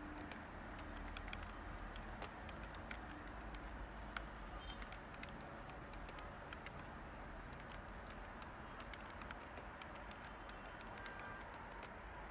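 Light, irregular typing on a computer keyboard: scattered soft key clicks over a steady white-noise hiss.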